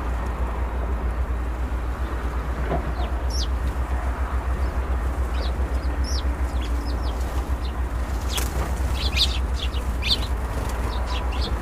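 Small aviary birds chirping: many short, high chirps, scattered at first and busier in the second half, over a steady low rumble.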